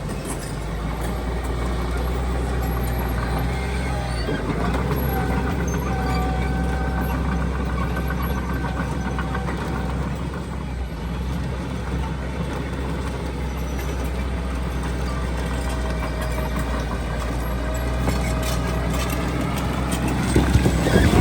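Diesel engine of heavy earthmoving machinery running steadily, with a thin whine above the engine note. It gets louder with some rattling and clanking near the end.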